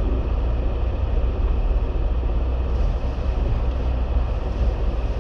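Steady low rumble of a Jeep Gladiator Rubicon driving on snow, heard from inside the cab: engine and tyre noise with no changes.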